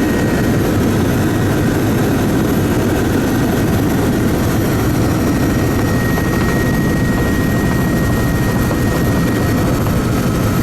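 Helicopter in flight: steady, loud engine and rotor noise, with a thin steady whine above it.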